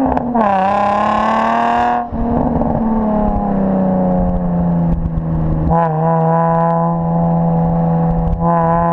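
A 2003 Nissan 350Z's V6 running through aftermarket headers, test pipe and a resonated X-pipe exhaust while driving. The engine note climbs in pitch over the first two seconds, breaks off, falls slowly as the revs drop, then holds steady for the last few seconds.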